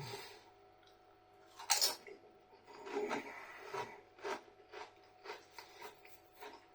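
A person chewing crunchy tortilla chips, close to the mouth: one sharp crunch not quite two seconds in, then a run of irregular smaller crunches.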